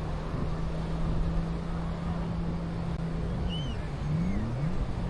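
Motorboat engine running steadily over a wash of surf noise. Its pitch dips and climbs back about three and a half to four and a half seconds in, then holds steady again.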